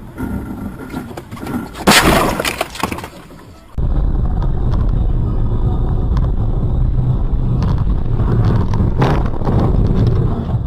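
Car crash: a loud impact with breaking glass about two seconds in, ringing on for about a second. After that comes a steady low rumble of engine and road noise inside a car, with two sharp knocks near the end.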